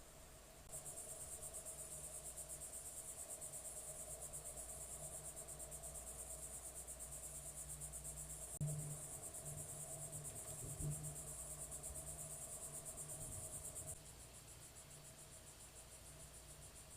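Insects trilling in a high, rapid, even pulse. It gets louder just under a second in and drops suddenly to a fainter trill near the end. Two low thumps come midway.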